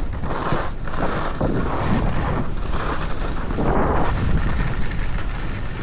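Wind rushing over the microphone while going fast straight down a snow slope, with the hiss of edges on snow surging every second or two.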